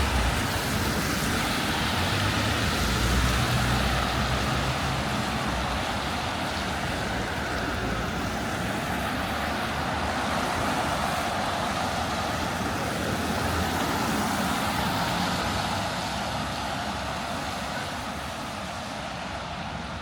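Road traffic passing on a wet city street: a steady hiss of tyres and engines, with a heavy vehicle's low rumble in the first few seconds, easing off toward the end.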